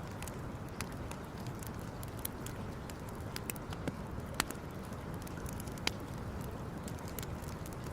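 Wood campfire burning, with scattered sharp crackles and pops over a steady low rush.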